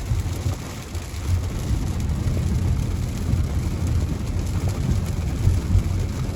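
Steady low rumble of a car driving in rain, heard from inside the cabin, with rain on the windshield and roof.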